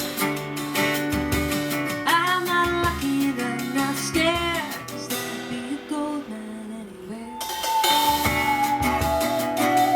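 Acoustic guitar strummed in a steady rhythm, with a woman singing over it. The music drops quieter for a couple of seconds midway, then picks up again.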